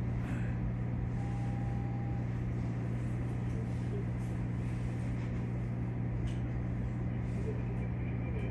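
Steady low hum of a stationary Keikyu electric train's onboard equipment, heard from inside the train while it stands after an emergency stop, with a brief faint tone about a second in.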